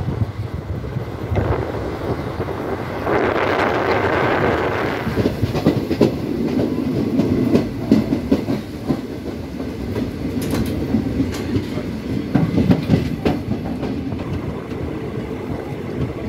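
Train coach running along the track: a steady rumble with irregular clacks of the wheels over rail joints, most frequent through the middle of the stretch.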